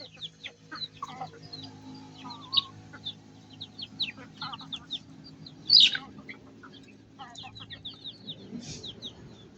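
Chickens calling: many rapid, short, high peeps, typical of chicks, over occasional lower clucks from hens. One louder call stands out about six seconds in, and a faint steady low hum runs underneath.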